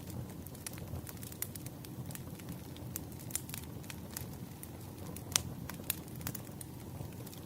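Firewood burning: a steady low rumble of flames with frequent sharp crackles and pops, the loudest pop about five seconds in.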